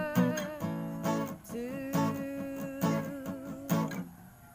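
Strummed guitar accompanying a sung song, the voice holding one long note through the middle. The sound thins out and drops in level just before the end.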